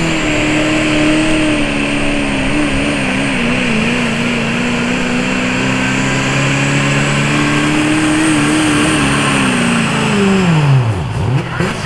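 Super stock diesel pulling truck's engine running hard at high rpm under load during a pull. Its pitch wavers a few seconds in, then drops steeply near the end as the engine winds down.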